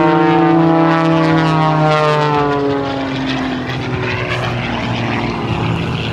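Aerobatic propeller plane flying past fast, its engine and propeller note falling in pitch as it goes by. It is loudest in the first second and turns to a rougher, more distant drone after about three seconds.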